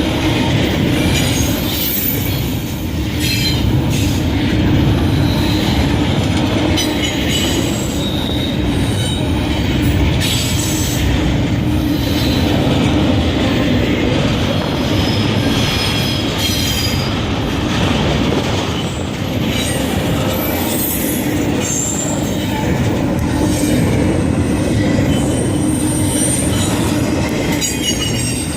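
A train rolling past, with a steady rumble and wheels squealing on the rails in short high-pitched squeals that come and go. There is clicking of wheels over rail joints.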